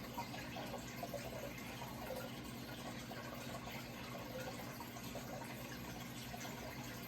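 Running water trickling and bubbling steadily, with a steady low hum underneath.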